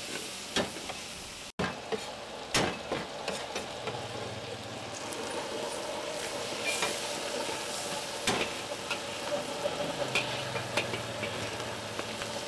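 Oil sizzling in a wok as mutton pieces fry, with a metal wok spatula scraping and clinking against the pan as it stirs. The sound breaks off briefly about a second and a half in.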